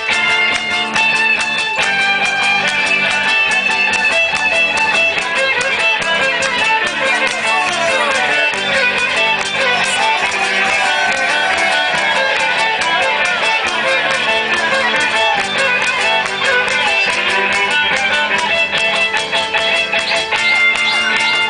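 Music led by plucked and strummed guitar, playing steadily without a break.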